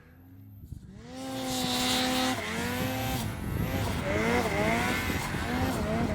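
Snowmobile engine revving, its pitch rising, holding and dipping again and again as the throttle is worked. It starts faint and grows louder about a second in.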